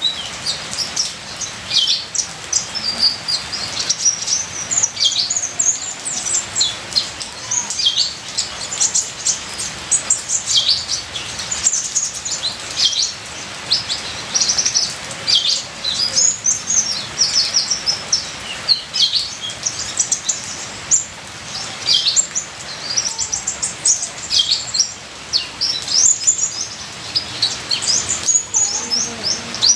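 Kolibri ninja (Van Hasselt's sunbird) singing a rapid, varied run of high, thin chirps and short sweeping twitters, almost without pause, over a steady hiss of trickling water.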